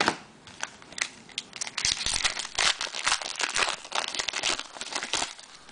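A foil trading-card pack being torn open and crinkled, with a run of sharp crackles and rustles, busiest in the middle.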